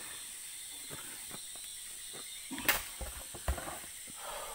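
A steady high hiss with a few short knocks. The loudest is a sharp thump about two and a half seconds in, followed by another knock about a second later.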